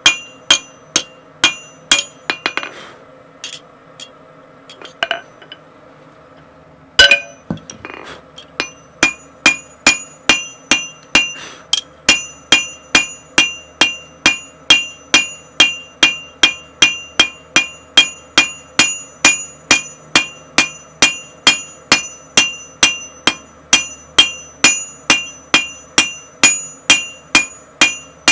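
Blacksmith's hammer striking 1060 tool steel on an anvil while forging, about two to three ringing blows a second. The blows break off about two and a half seconds in, leaving a few light taps. They pick up again with a heavy blow around seven seconds in and carry on at a steady pace.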